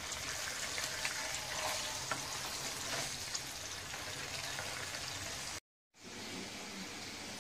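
Chicken mince patty frying in shallow oil in a pan: a steady sizzle with fine crackles. It cuts off abruptly about five and a half seconds in, and after a short gap a shorter stretch of steady hiss follows.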